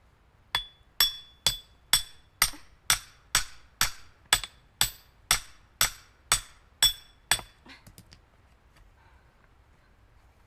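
Hammer striking a steel woodpecker-shaped splitting wedge to drive it into a log: about fifteen sharp, ringing metallic blows at an even pace of about two a second, stopping a little over seven seconds in.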